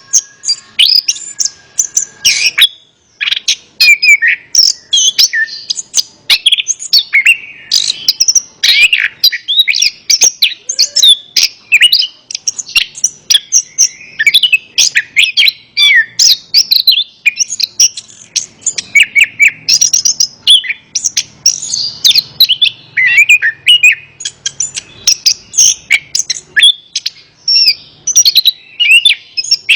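Orange-headed thrush singing a long, unbroken run of quick, varied whistled phrases.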